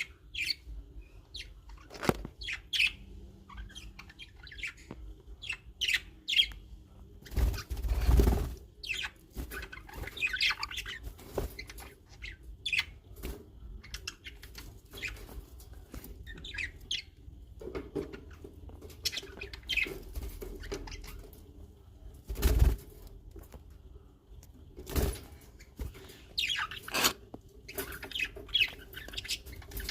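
Small birds chirping in many short, high calls, broken by a few loud bursts of noise such as wing fluttering, the longest about eight seconds in.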